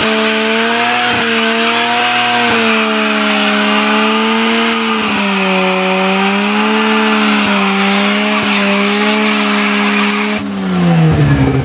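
Mazda rotary engine of a car held at high revs under way, its note wavering slightly. The revs drop about ten and a half seconds in, then climb again.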